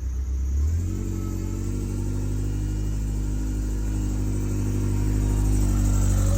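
Ferrari 308 GTS quad-cam V8 running through a new four-exit exhaust. It revs up about a second in as the car pulls away, then runs on steadily, getting louder near the end.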